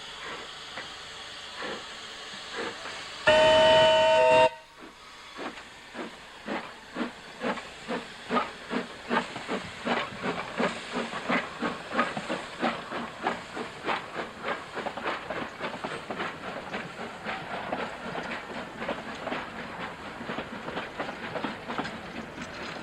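Beyer, Peacock narrow-gauge steam tank locomotive of the Isle of Man Railway giving a short whistle blast of about a second, then pulling away with exhaust chuffs that quicken as it gathers speed.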